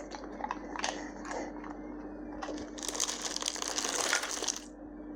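Bull terrier crunching and chewing dry food: scattered crunches, then a denser spell of crunching for about a second and a half past the middle.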